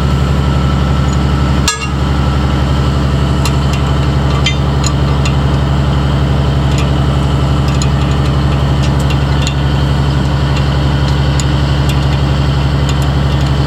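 An engine idling steadily, with a single short knock about two seconds in and a few faint light ticks.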